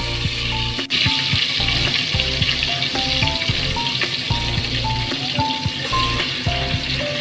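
Chicken pieces frying in oil in a pan, a steady dense sizzle with a brief break about a second in. Background music with short melody notes plays underneath.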